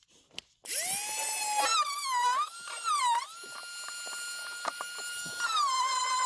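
Handheld power drill motor whining up to speed, its pitch dipping several times as it takes load, as when drilling or driving a screw into timber.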